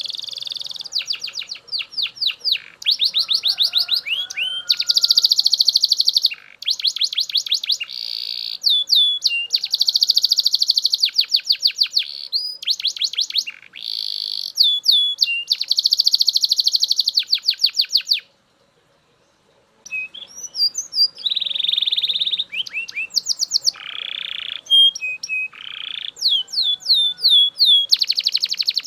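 Male Belgian canary singing loudly in long runs of fast trills and rolling tours. The song breaks off for about a second and a half a little past the middle, then starts again.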